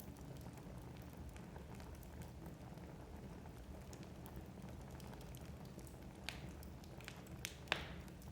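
Wood fire burning in a fireplace: a low steady rumble of flames with small scattered crackles, and a few sharper pops of the burning logs near the end, the loudest just before the end.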